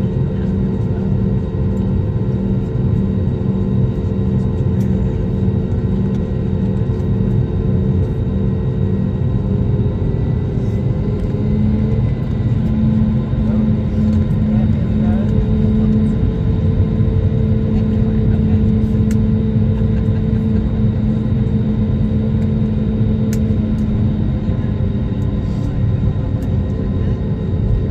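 Steady cabin drone of an airliner in flight: engine and airflow noise with a low hum that steps slightly up in pitch about twelve seconds in.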